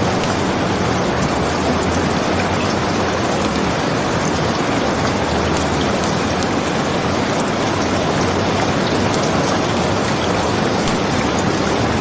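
Steady rain, an even hiss with no breaks, with a few faint scattered ticks.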